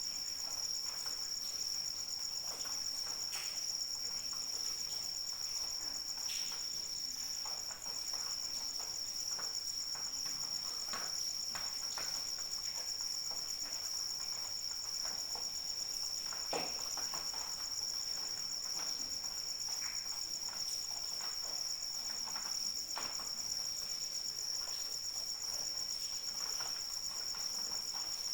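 Crickets trilling in a steady, unbroken high-pitched chorus, with light rain and scattered drops pattering underneath.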